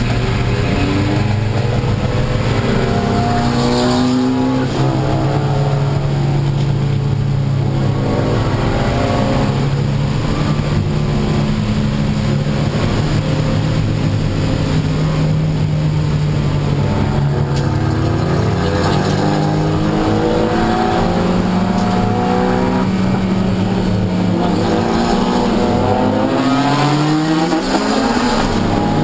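Honda Civic Si race car's engine under hard acceleration, its pitch repeatedly climbing and then dropping at gear changes, over a steady hiss of road and tyre noise on a wet track.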